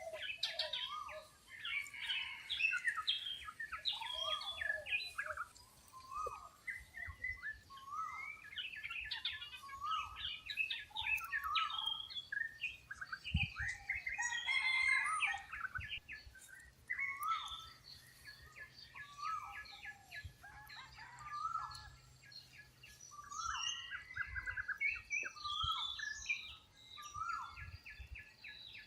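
Many wild birds chirping and calling at once in a dense chorus of short overlapping notes, among them repeated short calls that drop in pitch.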